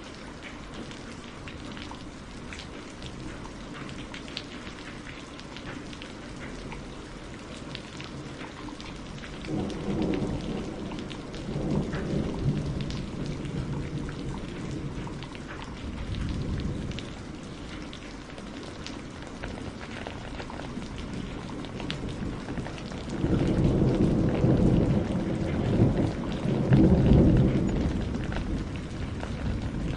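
Steady rain falling, with two long rolls of thunder: one about ten seconds in, and a louder one from about twenty-three seconds in that fades near the end.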